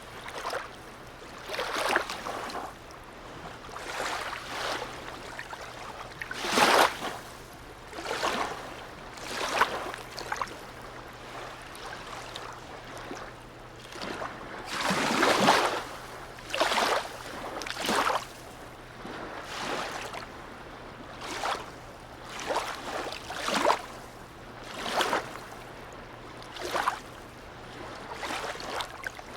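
Sea water lapping and splashing in a harbour, in uneven splashes every second or two, with a faint steady low hum underneath.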